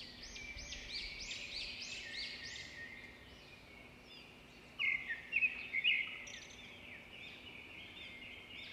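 Birds calling outdoors: a rapid run of repeated arching chirps for the first few seconds, then a few louder, sharper chirps about five seconds in, over faint background noise.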